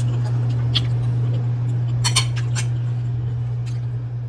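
A steady low hum under a few light clinks of tableware: one just before a second in, then a quick cluster of three or four about two seconds in.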